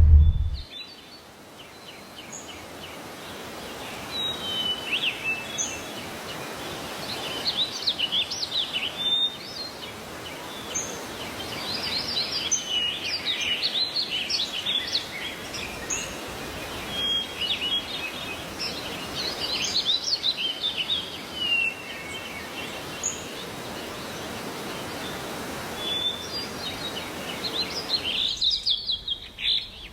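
Many birds chirping and whistling in quick, scattered calls over a steady hiss of background noise. A loud low rumble cuts off just as it begins, and the hiss falls away near the end while the chirping goes on.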